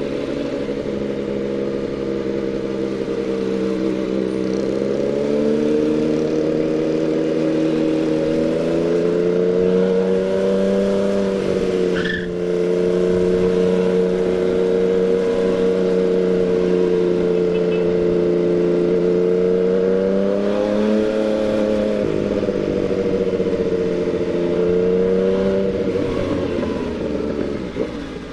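Yamaha MT-09's three-cylinder engine running at low, steady revs while being ridden. Its note rises a few seconds in, breaks briefly a little before halfway, then swells and eases a couple of times later on.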